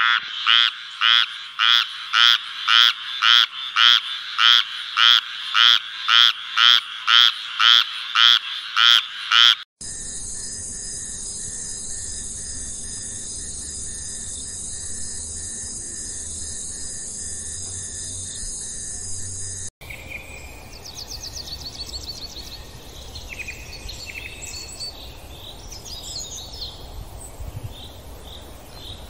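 A frog calling in a loud, even series of pulsed croaks, about two a second. About ten seconds in, this cuts to a steady high buzzing drone. About twenty seconds in, that gives way to varied chirping and trilling calls.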